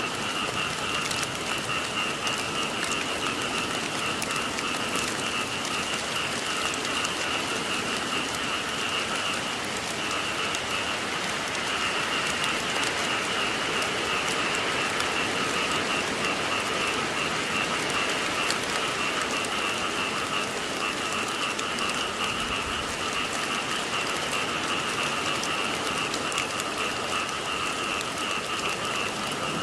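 Steady rainfall pattering on surfaces, with a continuous chorus of frogs calling underneath.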